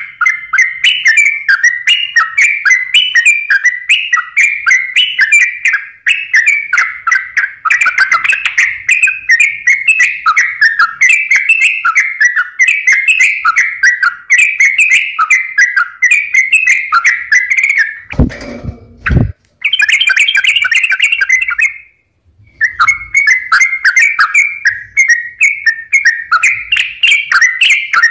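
Yellow-vented bulbul (trucukan) singing non-stop, a run of quick bubbly phrases repeated over and over. A low thud breaks in just after the middle, and the song stops briefly a few seconds later before resuming.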